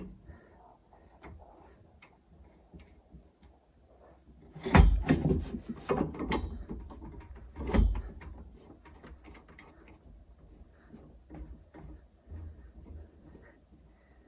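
Handling knocks and clatter: light scattered clicks, a loud cluster of knocks about five seconds in, and another single knock near eight seconds.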